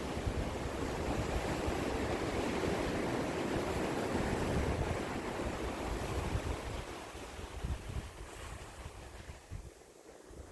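Sea waves on the shore: a wash of surf that swells over the first few seconds, then fades away toward the end, with wind buffeting the microphone.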